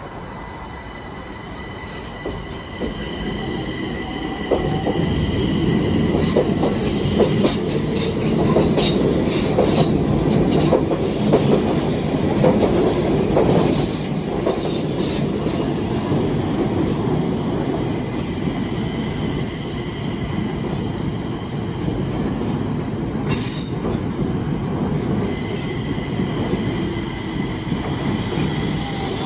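Stockholm Metro train running on the rails, growing louder over the first few seconds: a low rumble with steady high-pitched whining and wheel squeal, and a long run of sharp clacks in the middle and another near the end.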